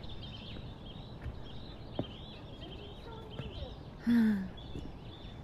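Small birds chirping in a conifer forest: many short, high chirps throughout. About four seconds in, a person lets out a brief sound that falls in pitch. This is the loudest thing heard.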